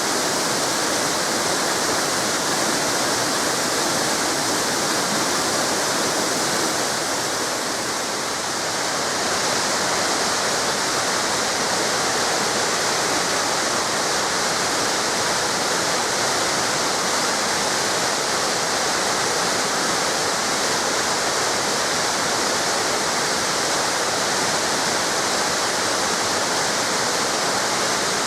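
Waterfall cascades pouring, a steady, even rush of falling water with a slight dip in level around a third of the way in.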